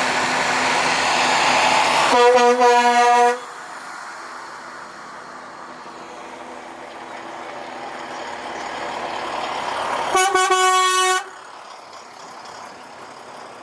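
Prime-mover trucks passing in a parade: engine and road noise builds as one goes by and it sounds its truck horn for about a second. A second truck approaches and gives a higher-pitched horn blast about eight seconds later.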